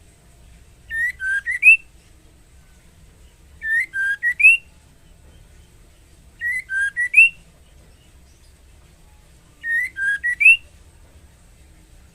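Female white-rumped shama calling to a male: four short whistled phrases, each of about four notes ending on a rising note, repeated about every three seconds.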